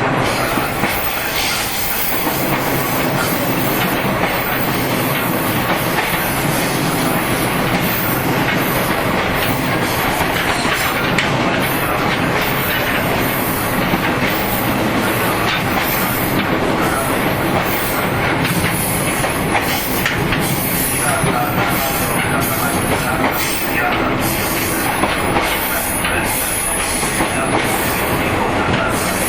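Inside a JR 115-series electric multiple unit while it is running: a loud, steady rush of wheel-on-rail and running gear noise, with rail-joint clicks.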